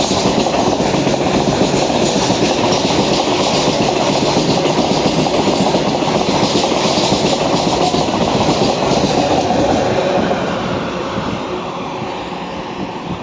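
Wheels of a rake of BOXNHL freight wagons clattering over the rail joints as the train runs through, with a steady clickety-clack; the sound fades near the end as the train moves away.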